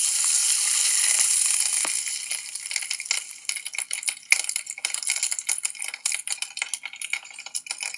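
A sudden spray hiss lasting about two seconds, fading into dense, irregular crackling and fizzing clicks.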